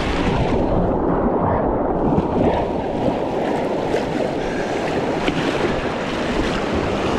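Rushing creek water around a kayak, a steady full rush, with a few faint splashes or taps from the paddle.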